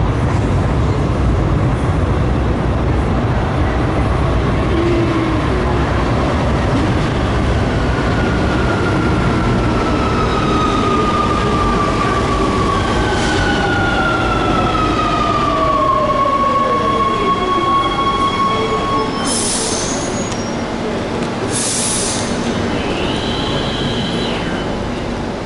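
Rome metro train pulling into the station and braking to a stop: a loud rumble, with electric motor whine gliding down in pitch as it slows and some wheel squeal, then two short hisses of air near the end.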